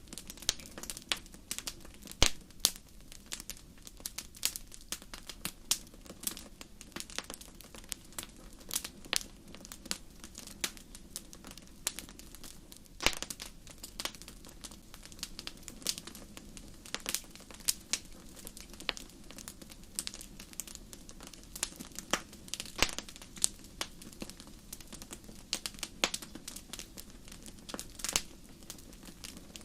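Campfire crackling: irregular sharp snaps and pops, a few much louder than the rest, over a steady low background of the burning fire.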